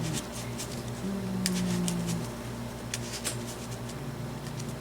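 Trading cards being handled on a table: scattered light clicks and taps as cards are picked up and placed, over a steady low room hum, with a short low murmur of a voice about a second in.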